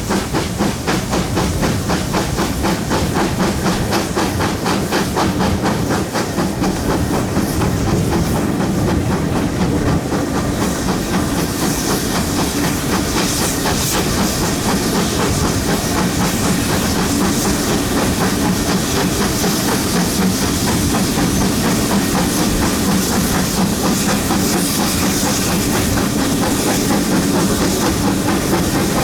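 GWR Manor class 4-6-0 steam locomotive 7820 Dinmore Manor working hard: fast, even exhaust beats with steam hiss, the hiss growing stronger about halfway through, over the clatter of the train's wheels on the rails. Very loud.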